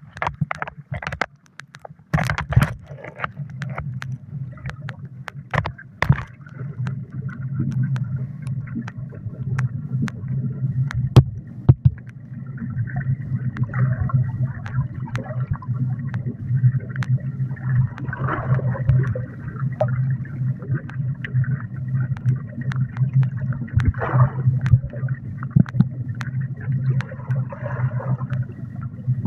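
Muffled underwater sound of a swimming pool picked up by a submerged phone's microphone: scattered clicks at first, then a steady low pulsing hum from about two seconds in, with gurgles and sharp clicks over it.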